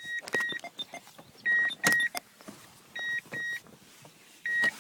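Pickup truck's warning chime beeping in pairs of short high tones, about every second and a half, with a few sharp clicks and knocks in between.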